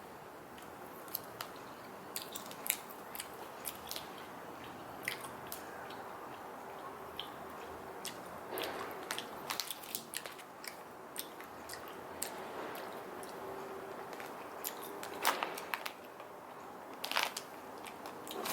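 Close-up chewing of a soft grape gummy candy wrapped in rice paper: irregular small mouth clicks and smacks.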